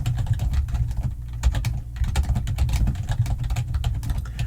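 Rapid, irregular typing on a computer keyboard, a quick patter of key clicks, over a constant low hum.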